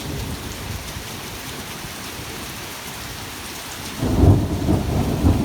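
Heavy rain falling steadily in a thunderstorm. About four seconds in, a sudden loud, low rumble sets in and keeps going.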